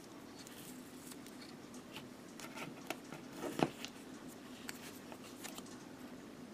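Small clicks and rustles of plastic model-kit parts being handled, with a sharper knock about three and a half seconds in, over a steady low hum.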